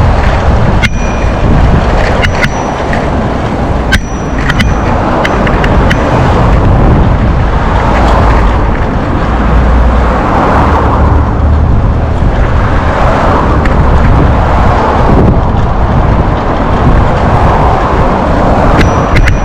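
Wind buffeting the microphone while riding a bicycle: a loud, rumbling rush that swells and fades, with a couple of sharp clicks or rattles in the first few seconds.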